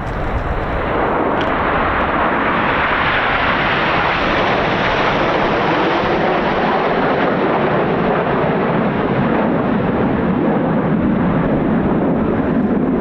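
Jet noise of Red Arrows BAE Hawk T1 jets (single Adour turbofan each) passing in a flypast. It is loud and steady and at its highest and brightest a few seconds in, then settles to a deeper, lower sound toward the end.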